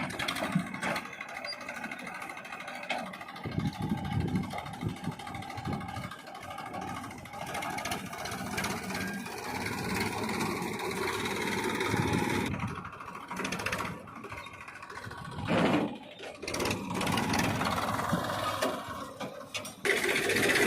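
Massey Ferguson 1035 DI tractor's three-cylinder diesel engine running steadily, with a brief louder moment near the end.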